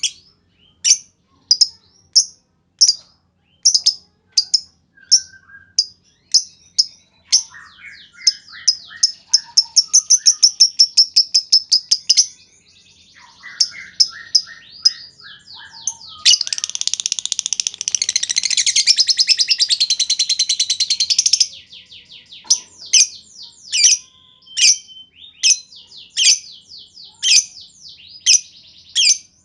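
Lovebird calls: sharp, high chirps repeated about twice a second (the clipped 'ngetik' call), a quicker run of chirps, then a long, rapid unbroken trill (the 'ngekek' chatter) a little past halfway, after which the spaced chirps resume.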